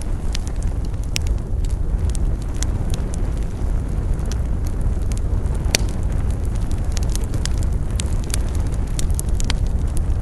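Wood campfire burning with a steady low rumble of flame, and many sharp crackles and pops scattered irregularly through it; one louder pop comes about six seconds in.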